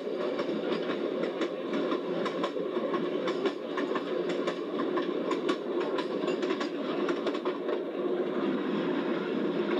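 Passenger train cars running along the track at speed, heard from on board: a steady rumble of wheels on rails with irregular clicking and clacking from the track.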